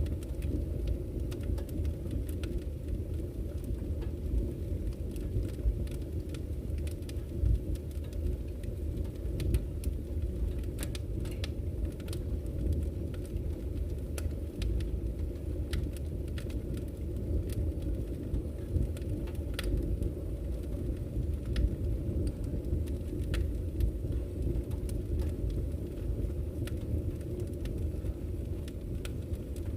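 Wood fire burning in a fireplace: a steady low rumble of the flames with scattered sharp crackles and pops from the burning logs, a few standing out louder.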